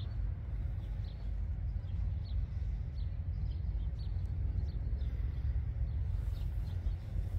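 Small birds chirping in short high notes, scattered irregularly, over a steady low rumble.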